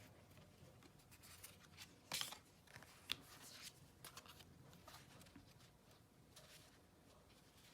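Faint rustling and light clicks of tarot cards being handled, with the loudest rustle about two seconds in and a sharp click about a second later.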